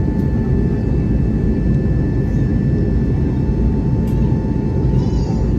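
Steady cabin noise of an Airbus A321neo jet airliner: a dense low rumble of engine and airflow with a faint steady whine above it.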